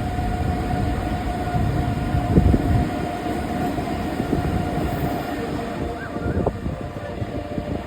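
Express passenger train running on the rails: a heavy low rumble and wheel clatter over a steady high hum, swelling loudest about two and a half seconds in.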